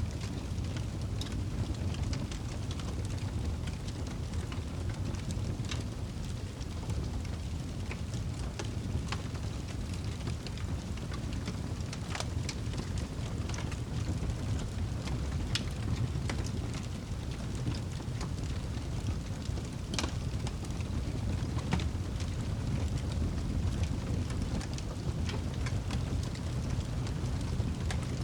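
Campfire burning: a steady low rumble with frequent sharp crackles and pops at irregular intervals.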